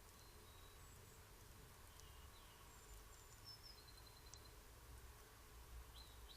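Faint, distant birdsong: scattered short, high chirps, some sliding slightly in pitch, over a low background hiss, with one brief click about midway.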